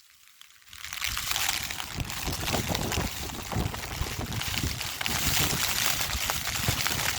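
Heavy rain pattering on an umbrella while gusty wind buffets the microphone, starting about a second in after a moment of near silence.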